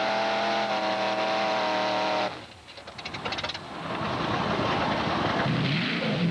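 Mini modified pulling tractor's engine running flat out at a steady high pitch, then cutting off suddenly about two seconds in. A brief quieter spell with some light rapid ticking follows, then loud engine noise builds back up.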